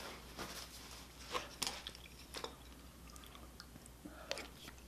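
A person chewing a mouthful of food, with a few scattered soft crunches and wet mouth clicks.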